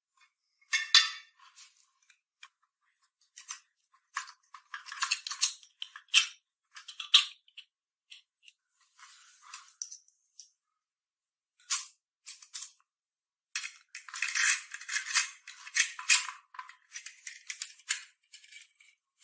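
Irregular bursts of scraping and rattling from hand work on small parts, thin and tinny, with short silences between them and a dense cluster in the last few seconds.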